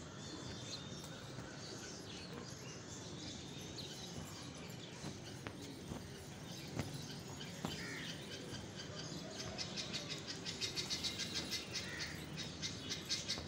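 Outdoor background noise with scattered faint bird chirps. From about ten seconds in, a rapid, evenly repeated high chirping of several notes a second grows louder.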